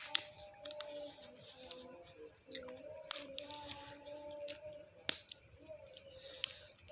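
Close-up chewing of raw mustard greens: irregular sharp, crisp crunches, the loudest about five seconds in, with a faint wavering tone underneath.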